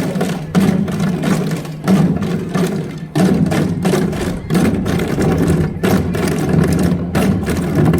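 Korean janggu hourglass drums beaten by the dancers: sharp strokes recurring roughly once or twice a second over a steady low backing sound.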